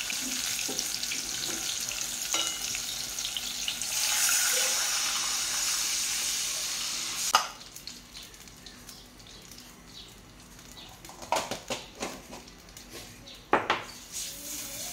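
Onion, garlic and spices frying in oil in a pot on a gas hob: a steady sizzle that swells about four seconds in, then drops away suddenly about halfway through. After that it is quieter, with a few sharp clicks and knocks from a spice jar and a wooden spoon in the pot.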